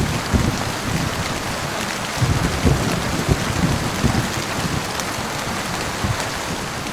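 Heavy rain falling steadily, with low thunder rumbling irregularly underneath.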